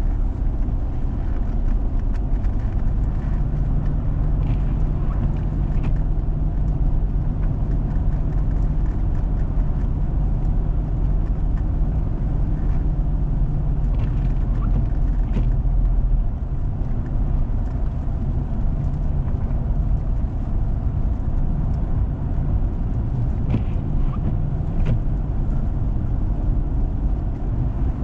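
A vehicle driving on a snow-covered road: steady low rumble of engine and tyres, with a few faint ticks. The deepest rumble eases a little about halfway through.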